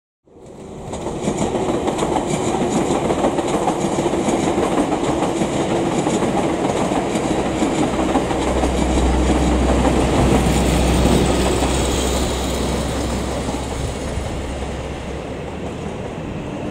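Auckland Transport AM class electric multiple-unit train running along the tracks. The sound fades in at the start, builds with a deep rumble to its loudest about eleven seconds in, then eases off near the end.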